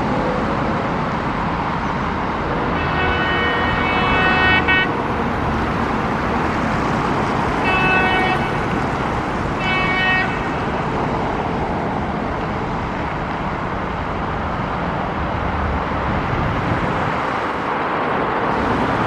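EP2K electric locomotive's horn sounding one long blast and then two short ones, over the steady rumble and rush of a passenger train running through a platform.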